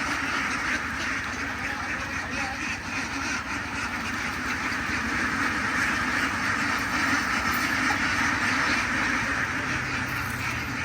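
A flock of farm ducks quacking together in a continuous, overlapping din.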